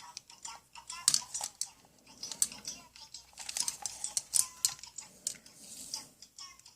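Irregular clicking and clattering of plastic toy tools being handled.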